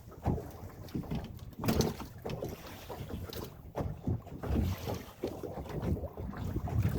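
Gusty wind buffeting the microphone, a rumbling noise that swells and drops irregularly.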